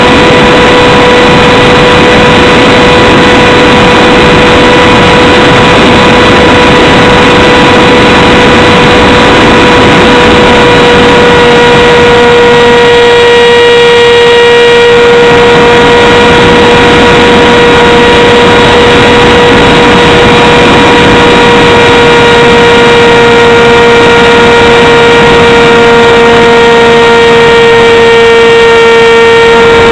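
RC plane's electric motor and propeller running at steady throttle, a continuous whine heard from the onboard camera, with heavy rushing air and wind noise over the microphone. The pitch sags slightly towards the end and picks up again.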